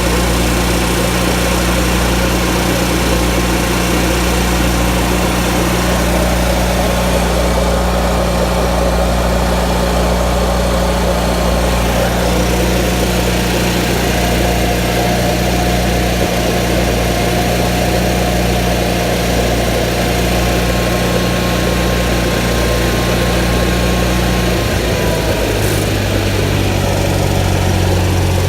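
An engine running steadily with a thin mechanical whine over it. About 25 s in, the whine drops away and the engine note falls to a lower, steadier pitch.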